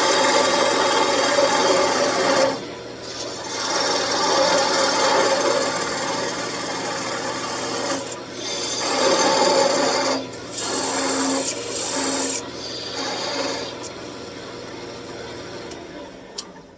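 Parting tool cutting into spinning wood on a wood lathe, in several passes broken by brief pauses, over the steady hum of the lathe. The cutting and the hum stop near the end.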